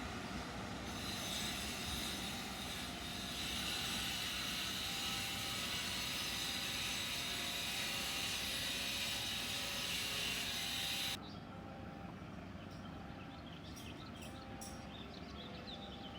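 Passenger train running past, a steady rumble and hiss of wheels on rails. It cuts off suddenly about eleven seconds in, leaving a quieter background with a few faint high chirps.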